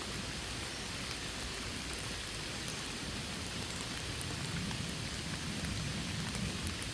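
Steady rain falling, with fine drop patter over a low rumble.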